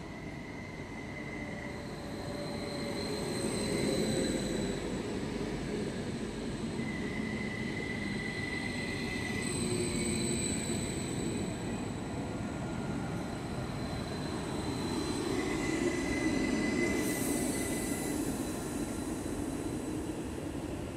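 Train running past on the rails: a steady rumble that swells and eases a few times, with a thin high whine or squeal that comes and goes.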